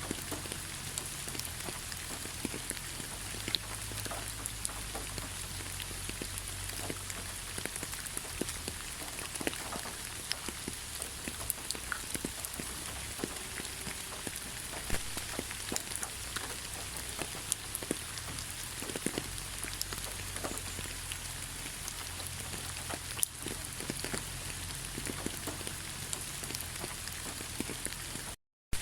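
Steady rain falling in a pine forest: an even hiss with scattered sharp drip taps. It cuts out for a split second near the end.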